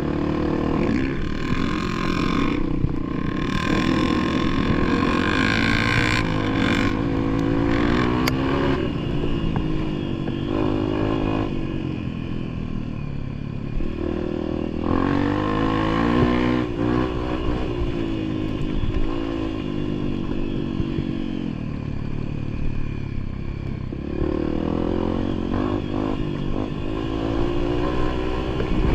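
Motorcycle engine on a trail ride, its pitch rising and falling repeatedly as the throttle is worked.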